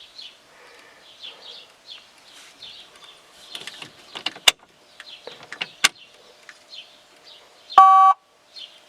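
Small birds chirping over and over, with a few sharp clicks around the middle. Near the end comes a short, loud buzzing beep under half a second long, the loudest sound here.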